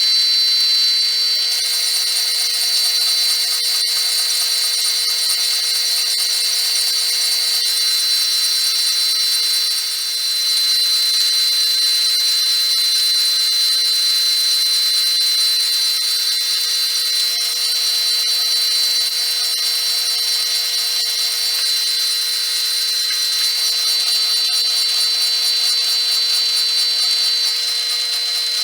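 Metal lathe taking a turning cut on a flywheel's rim held on a faceplate, running steadily with a high whine throughout. The sound dips briefly about ten seconds in.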